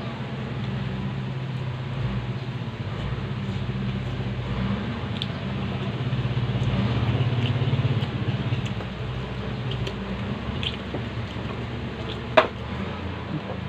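Close-up eating sounds: wet chewing and mouth smacking, with scattered small clicks of fingers and bones on a metal tray and one sharp click about twelve seconds in. A low steady hum runs underneath, louder around the middle.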